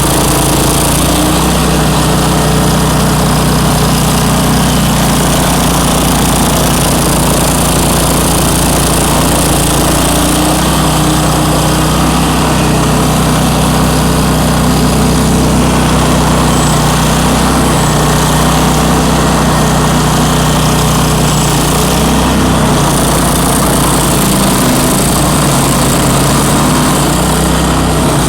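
Engine of a Bandit ZT1844 stump grinder running steadily and loudly, its pitch shifting slightly a few times.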